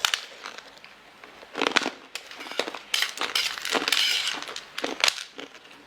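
Crunchy food being bitten and chewed in a few irregular spells of crunching, the longest about three seconds in.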